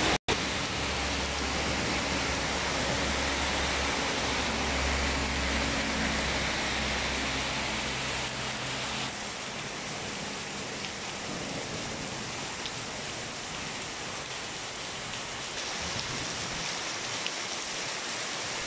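Heavy rain falling on a paved road and pavement, a steady hiss. A low hum runs under it for about the first eight seconds, and the rain sounds a little softer after about nine seconds.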